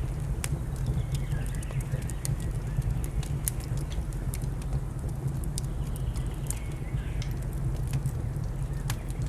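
Wood fire crackling with frequent sharp pops over a steady low rumble, while birds call in short falling whistles now and then.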